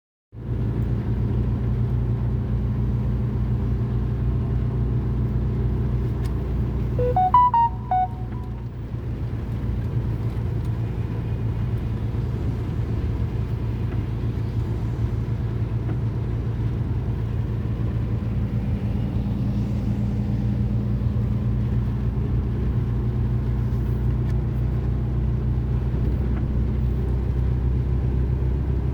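Vehicle engine running steadily with a low rumble. About seven seconds in, a short run of four or five rising electronic notes sounds over it.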